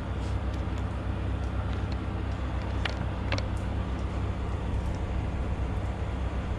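Semi truck's diesel engine idling steadily, with two light clicks about three seconds in.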